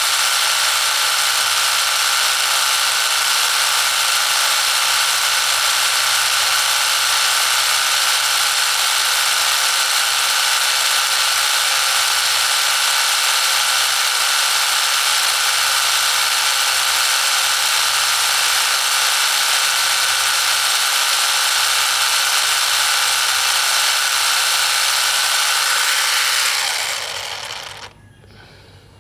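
Mini diesel engine running at a steady high-speed buzz, then winding down and stopping near the end.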